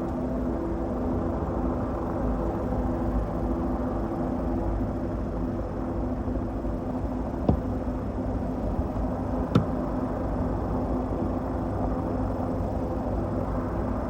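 A steady engine drone with a low rumble, and two sharp clicks about two seconds apart in the middle.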